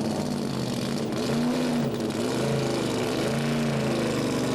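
Race car's Ford four-cam V8 running with the throttle blipped, its pitch rising and falling several times.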